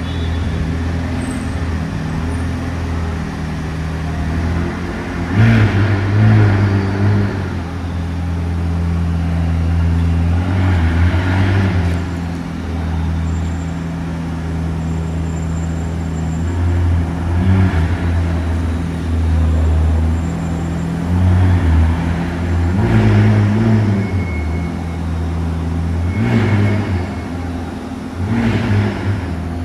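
A car engine idling close by with a steady low note, blipped into short revs about seven times.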